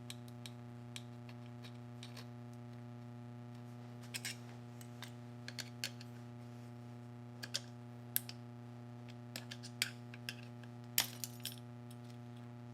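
Scattered small metallic clicks and clinks of hand tools on the washer's clutch retaining clip and clutch parts, irregular and one at a time, the loudest near the end, over a steady low electrical hum.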